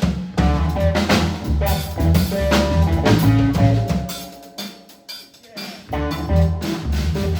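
Live blues trio playing an instrumental passage, drum kit with snare and bass drum over a bass line. It drops to a brief quieter break about two-thirds through, then the full band comes back in.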